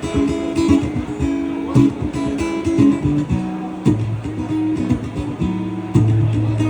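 Acoustic guitar strummed in a steady rhythm, playing chords as the instrumental lead-in to a song before the singing starts.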